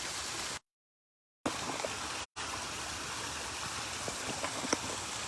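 Steady rush of a small stream or cascade of flowing water. The sound drops out completely for nearly a second shortly after the start and again very briefly a little later.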